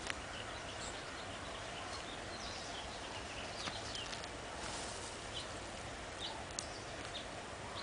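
Steady outdoor background rush with scattered short, high bird chirps throughout.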